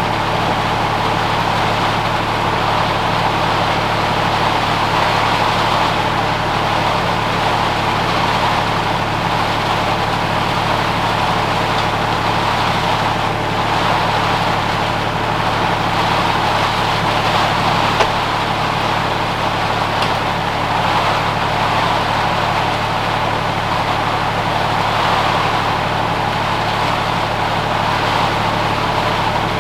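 Air compressor running continuously with a steady low hum and a hissing, rattling mechanical noise; it no longer shuts itself off. A single sharp click about 18 seconds in.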